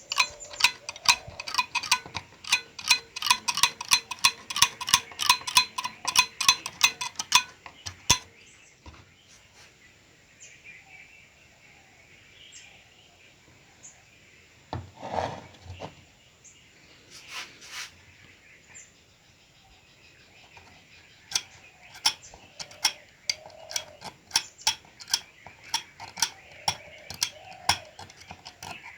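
Rapid metallic tapping, metal struck against metal with a short ringing tone, about four taps a second for the first seven seconds, then a few scattered clicks, and fast tapping again over the last eight seconds.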